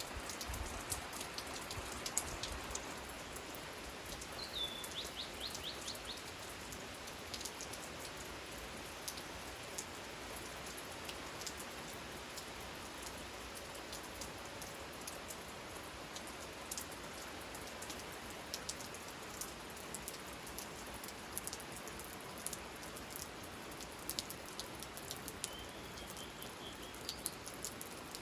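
Steady rain falling, with many single drops ticking close by. A bird calls briefly twice: a falling note followed by a quick run of repeated notes about five seconds in, and a short call near the end.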